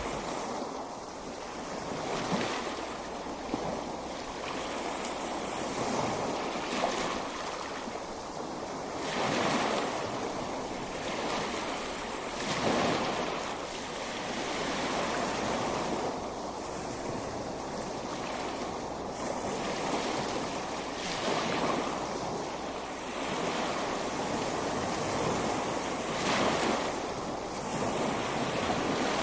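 Ocean waves breaking and washing up on a beach, a steady wash of surf that swells as each wave comes in every few seconds.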